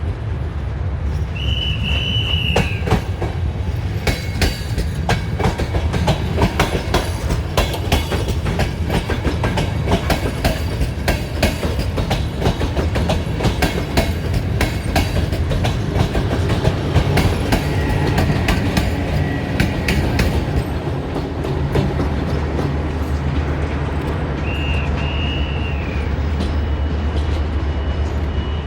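A train rolling along, its wheels clicking rapidly and irregularly over rail joints and points above a steady low rumble. A short high squeal comes twice, once near the start and once near the end.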